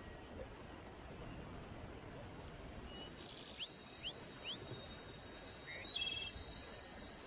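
Faint open-air ambience with a small bird giving a few short high chirps: three quick rising ones about halfway through and a couple more near the end.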